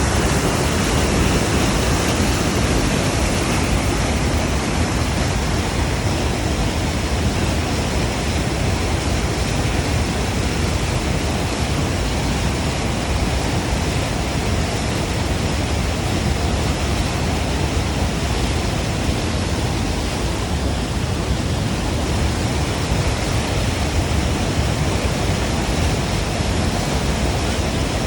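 Small stream of running water flowing with a steady rushing noise.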